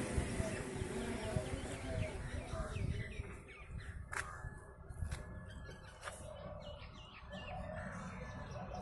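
Small birds chirping repeatedly in quick, short, falling notes, over a steady low rumble.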